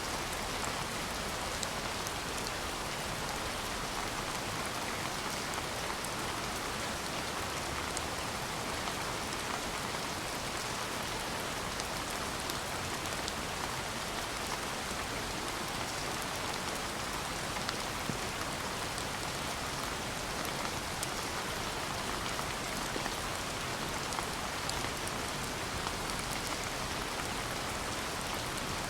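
Steady rain falling, a continuous even patter with many fine drop ticks.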